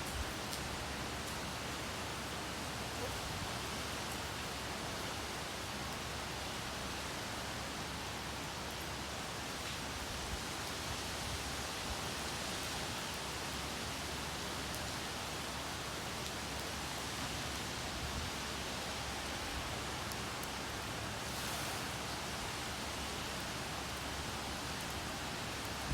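Rain falling with wind, a steady, even hiss that hardly varies in level.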